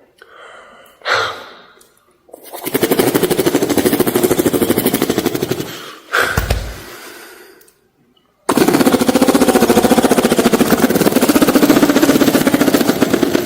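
A person beatboxing a helicopter: a fast, even chopping pulse made with the mouth, in two long runs with a short break between them, plus brief breathy vocal sounds before each run.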